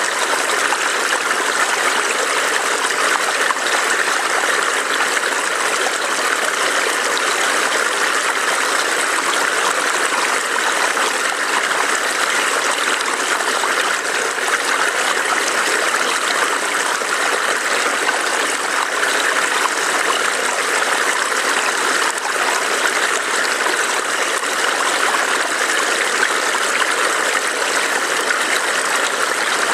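A small forest stream burbling steadily over rocks, an even rush of running water with no breaks.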